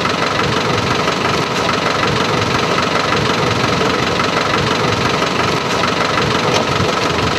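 Car engine idling steadily, a continuous even rumble with a faint steady whine, mixed with street noise.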